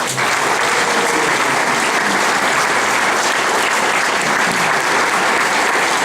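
Large audience applauding, a steady dense clapping that holds at an even level.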